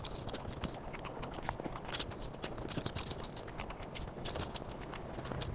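Close-miked mouth sounds of someone eating: quick wet clicks and smacks of chewing, packed closely together.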